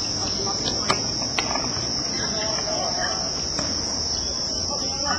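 Steady, high-pitched insect drone, like summer cicadas, running unbroken. Two short sharp knocks come about a second in and half a second later, with faint distant voices.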